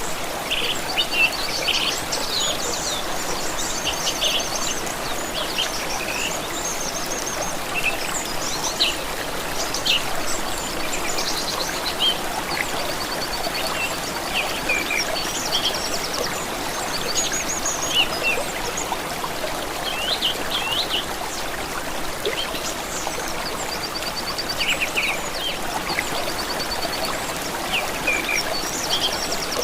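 Running water of a stream, a steady rushing babble, with songbirds singing over it: many short chirps and quick trills throughout.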